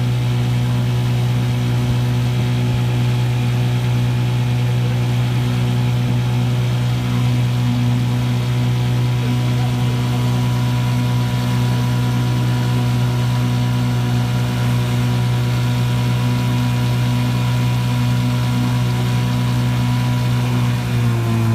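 1955 Johnson CD-12 5.5 hp two-stroke twin outboard running steadily under way at an even, unchanging pitch. Just before the end it is throttled back, and its pitch falls steeply.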